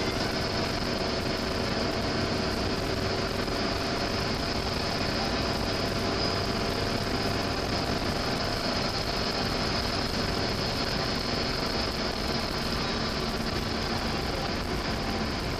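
Lotus Elise sports car's engine and road noise heard from inside the cabin, running steadily while cruising at an even speed.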